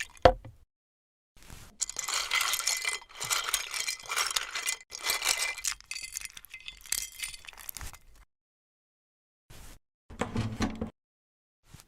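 Clinking and clattering of small hard objects: a dense run of crisp clinks for about six seconds, then a few short clatters near the end.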